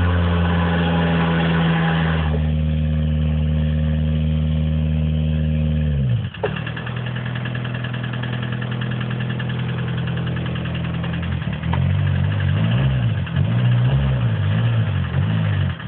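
Volkswagen Golf Mk1 engine held at high, steady revs, with a harsh hiss over it for the first two seconds or so. About six seconds in, the revs drop away to a lower run, and in the last few seconds the throttle is blipped in quick small rises and falls.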